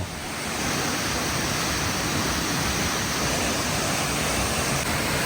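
Steady rushing of water from Mill Creek Falls, running high after storms.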